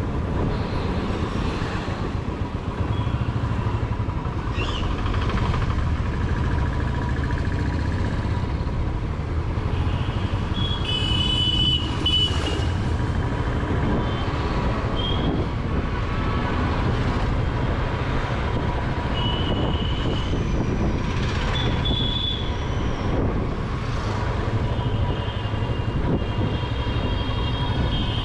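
Royal Enfield Classic 350's single-cylinder engine running at low speed in town traffic. From about ten seconds in, vehicle horns honk several times.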